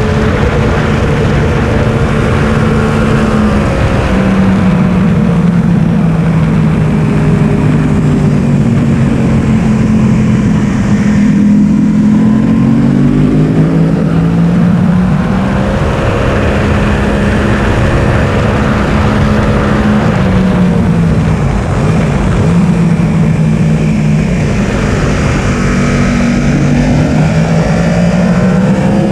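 Yamaha R1 sportbike's inline-four engine at speed, recorded on the bike, its pitch repeatedly climbing and dropping as the rider accelerates, shifts and slows for corners, over steady wind rush.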